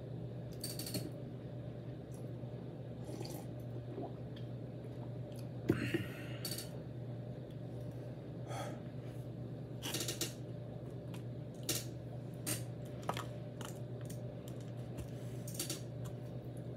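Close-up mouth sounds of someone chewing soft sweet bread: scattered short wet clicks and lip smacks, one every second or two, the sharpest about six seconds in, over a steady low hum.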